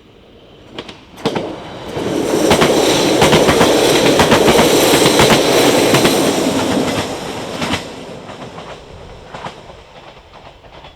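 Portuguese electric multiple unit passing at speed. It approaches, runs loud for about five seconds with a rapid clickety-clack of wheels over rail joints, then fades as it goes away.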